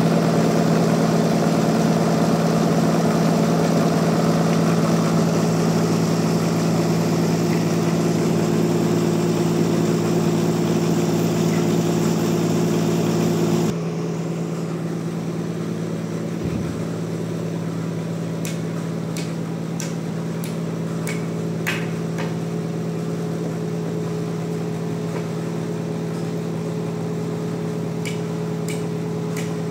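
Sawmill engine running steadily, at first under a loud hiss that cuts off suddenly about fourteen seconds in. The engine runs on after that, with scattered sharp knocks.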